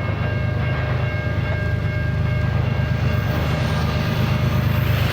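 CSX freight train passing, a loud steady low rumble with a few faint steady high-pitched tones over it.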